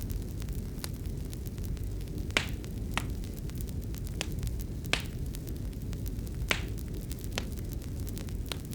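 Wood fire crackling in a fireplace: irregular sharp pops and crackles, a few louder snaps, over a steady low rumble.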